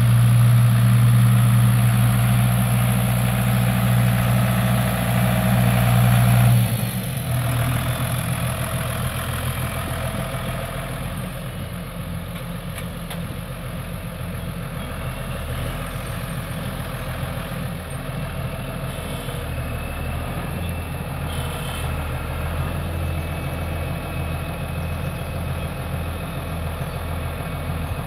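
John Deere 6603 diesel tractor engine running at raised speed, then throttled back about six and a half seconds in and idling steadily.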